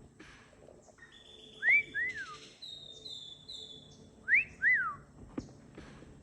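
A two-note whistle sounded twice, about a second and a half apart. Each time a short rising note is followed by an arching note that slides down, like a wolf whistle. Fainter steady high tones carry on behind them.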